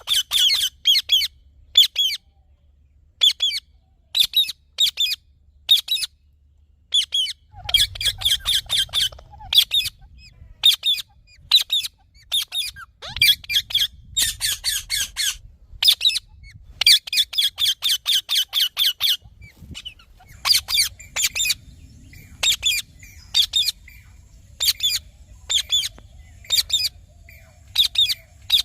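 Indian ringneck parakeet calling: short, shrill squawks, sometimes in rapid runs of several a second and sometimes one at a time with short pauses between.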